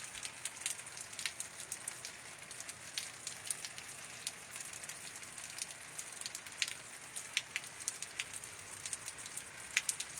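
Summer rain falling: an even hiss broken by many irregular, sharp drop taps.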